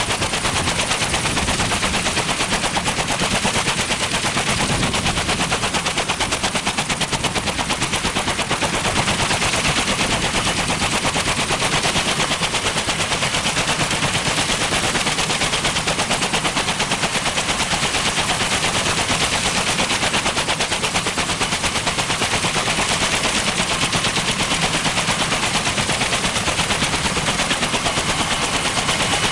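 Kaman K-MAX helicopter's intermeshing twin rotors turning at speed, a loud, steady, rapid chopping beat that holds evenly throughout.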